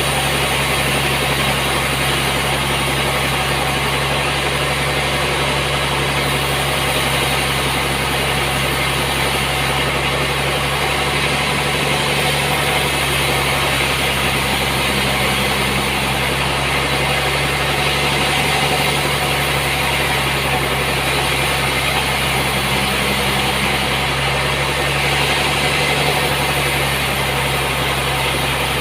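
Sawmill machinery running steadily, a constant low hum under an even mechanical noise.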